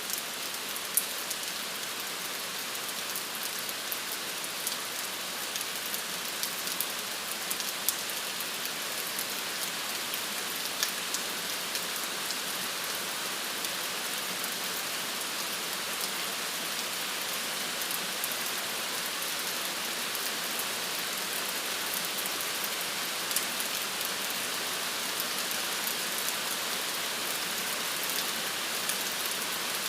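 Steady rain falling and pattering on a surface, an even hiss with scattered sharper drop ticks.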